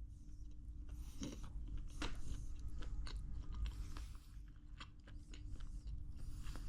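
A person chewing and biting into a nutty sweet, with scattered soft crunches.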